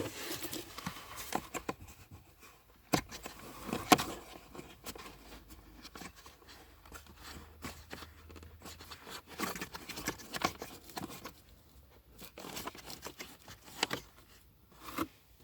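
Scattered clicks, taps and rustling of hands working on parts, with one sharp click about four seconds in.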